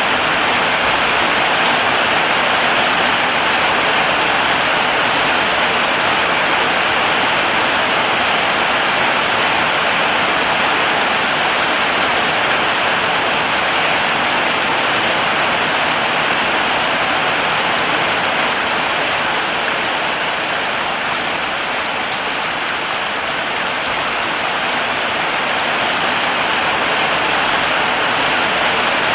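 Heavy rain falling steadily, a dense even hiss of drops on foliage and ground.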